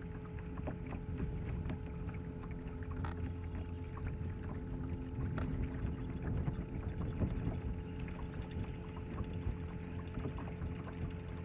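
Steady hum of a bass boat's motor, with water rumbling and lapping against the hull and a few faint ticks.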